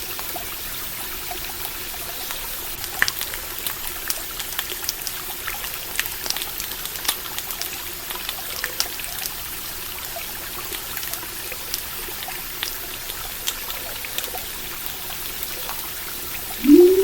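Stream water trickling steadily under scattered sharp crackles and pops from a campfire. Near the end a short, loud tone that rises and falls begins.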